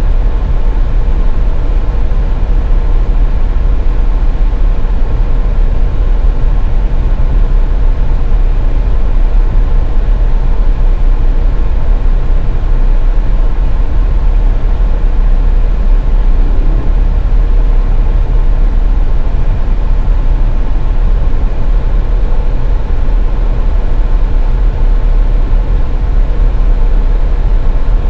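Car being driven, heard from on board: a steady, loud low rumble of tyres and engine, with a faint steady hum above it.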